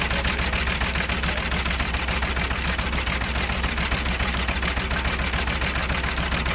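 Engine running steadily with a rapid, even chugging beat and a strong low rumble.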